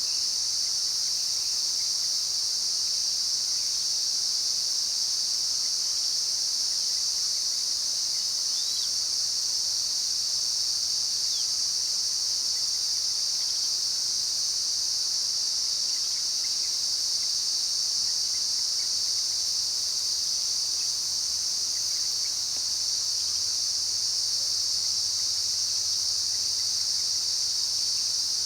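Steady, high-pitched insect chorus droning without a break, with a couple of faint bird chirps under it early on.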